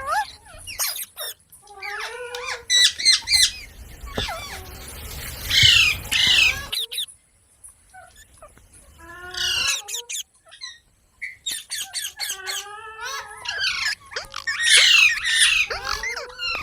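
Pet Indian rose-ringed parakeet chattering and squawking in bursts of gliding, chirpy calls, with a few harsh, loud squawks and a short pause about halfway through.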